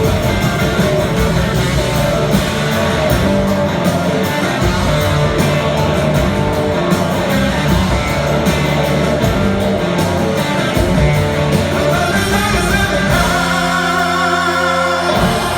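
Live rock band playing, with singing and electric guitar. The band closes on a sustained final chord that cuts off abruptly near the end.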